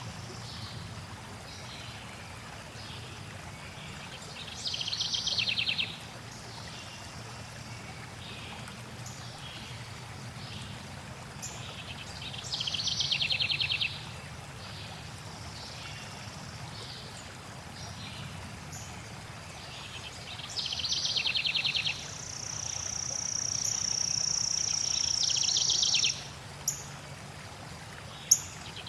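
Forest songbirds singing over a low steady rush of flowing water: a fast trilled phrase of about a second and a half comes back every eight seconds or so, with fainter chirps between. Near the end a thin high note is held for about four seconds, followed by two sharp clicks.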